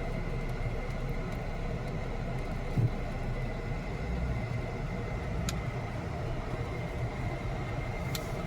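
Steady engine and road rumble of a car heard from inside the cabin while driving, with a faint steady high whine over it. A short knock about three seconds in and a couple of faint clicks later.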